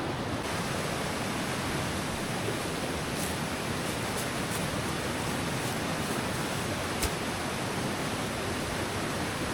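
Steady rushing of river water, an even hiss with no change in level, with a few sharp clicks, the clearest about seven seconds in.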